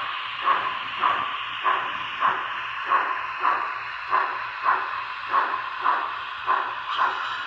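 Sound-equipped Broadway Limited M1a model steam locomotive's Paragon 2 system playing steady steam exhaust chuffs, a little under two a second, over a continuous hiss. The sound is thin and tinny from the locomotive's small onboard speaker.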